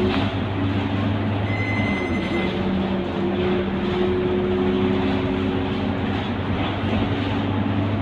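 Scania K230UB city bus running under way, its engine drone steady with tones that shift in pitch as it pulls along. A brief high tone sounds about two seconds in.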